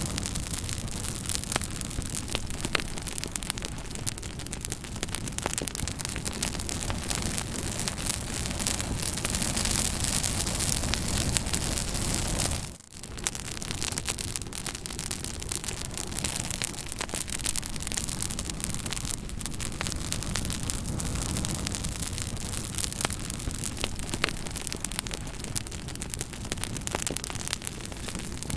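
Fire crackling: a steady hiss with scattered sharp pops and snaps throughout. The sound dips out briefly about thirteen seconds in, then carries on.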